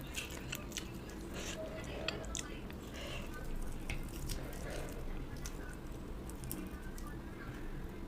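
Close-miked eating sounds: chewing and wet, squishy mouth noises from a mouthful of rice with fish curry, with many small scattered clicks.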